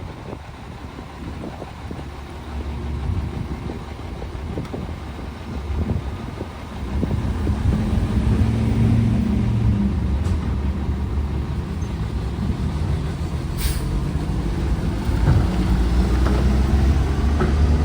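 Garbage truck's diesel engine running, getting louder about seven seconds in and holding there, with one brief sharp hiss about three-quarters of the way through.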